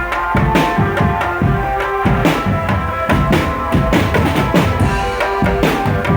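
Marching drum band playing: fast bass and snare drum beats with a held melody line over them.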